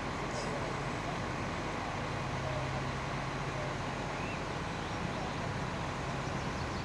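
A motor vehicle engine running steadily at a low hum, under an even wash of outdoor noise.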